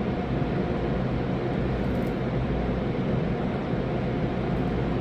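Steady low rumble and hiss of car wash machinery, heard from inside a car stopped on the wash's conveyor track, with a faint steady hum over it.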